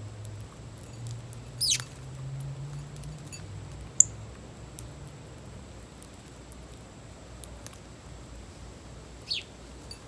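Backyard songbird calls: a quick, high call sliding steeply downward about two seconds in, a sharp click at about four seconds, and a shorter downward-sliding call near the end.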